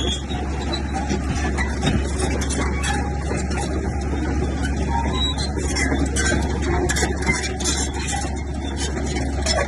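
Bulldozer's heavy diesel engine running steadily, with a constant low hum.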